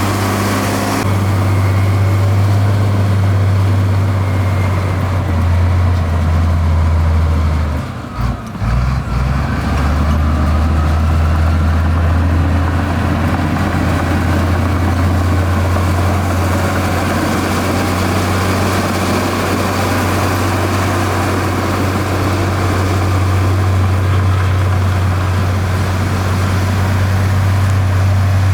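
Heavy construction machine's diesel engine running steadily with a deep low hum. The sound changes abruptly a few times, with a brief dip about eight seconds in.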